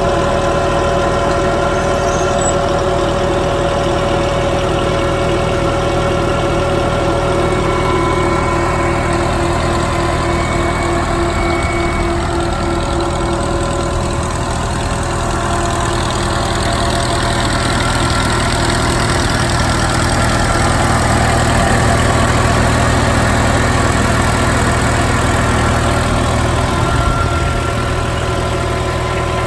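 Massey Ferguson 165 tractor engine running steadily at idle, a little louder past the middle.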